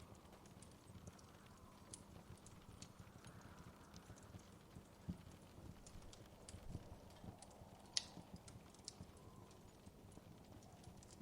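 Wood fire crackling softly in a fireplace: irregular small pops and snaps, one louder pop about eight seconds in, over a low, soft rumble.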